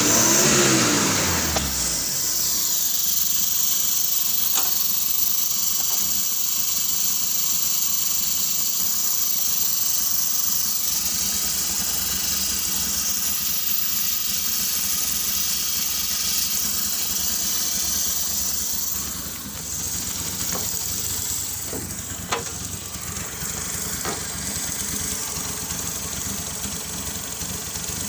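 Car engine revving, its pitch falling back over the first two seconds, then running steadily at idle. The level drops a little about two-thirds of the way through, and a few faint clicks sound over it.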